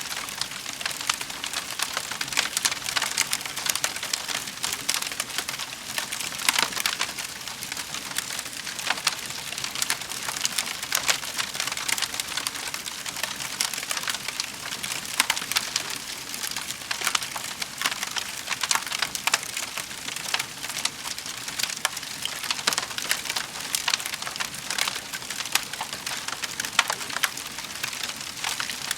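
Wood fire burning in a fireplace, crackling and popping continuously over a steady hiss of flames, with dense small sharp pops and now and then a louder crack.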